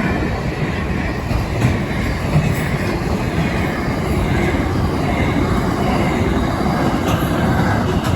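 Freight train of flat platform wagons rolling past at close range, a steady rumble of steel wheels on rail with a faint wheel squeal early on.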